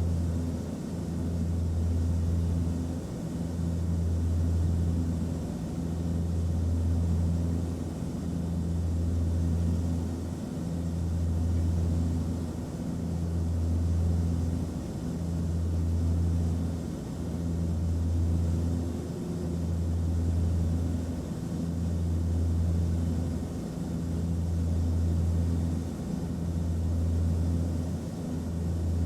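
Airliner cabin noise in flight: a steady low rumble with a deep hum that swells and fades about every two seconds, over a faint hiss.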